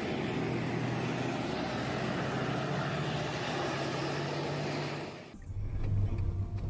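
Steady road and engine noise of a moving vehicle. About five seconds in it cuts off abruptly and gives way to a deeper engine rumble.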